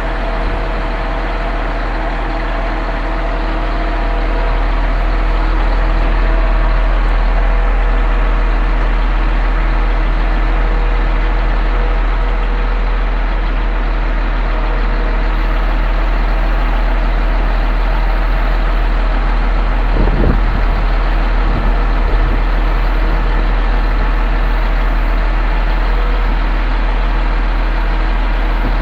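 Concrete pump truck running steadily, its engine and pumping gear making a loud, even drone with a strong low hum that grows a little louder about four seconds in. Two brief low knocks come near the end.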